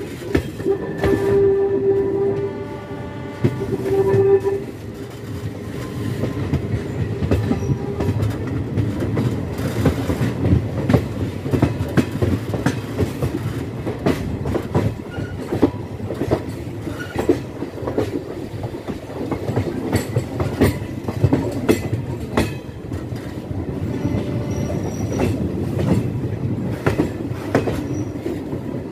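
Passenger train running along the track, heard from an open coach door: a steady rumble with the wheels clicking over rail joints all through. The locomotive horn sounds in a few held blasts during the first four or five seconds.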